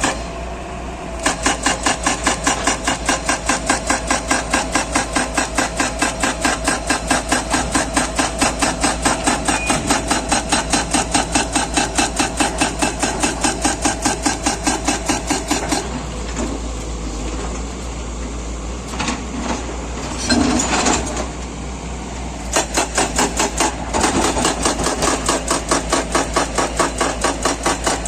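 Rapid, even mechanical hammering from road-construction machinery, about five strokes a second. It stops for several seconds past the middle, leaving a steadier machine noise with a few knocks, then starts again.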